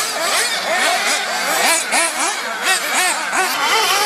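Several 1/8-scale nitro buggies racing together, their small 3.5cc two-stroke glow engines whining and revving up and down many times a second as the cars accelerate and brake.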